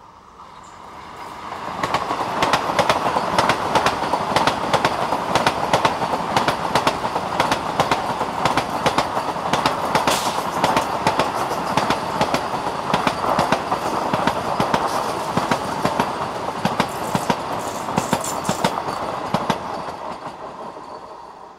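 Vande Bharat Express electric multiple-unit train passing at high speed: a loud rush of wheels on rail with rapid, repeated wheel clicks. It builds over the first two seconds, holds steady, and fades away near the end as the last coaches go by.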